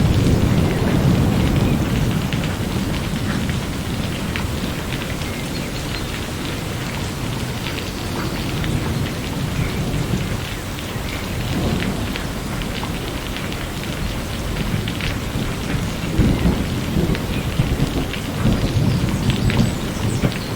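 Steady rain with scattered drop hits, and low rolling thunder that swells at the start, again about halfway through, and once more near the end.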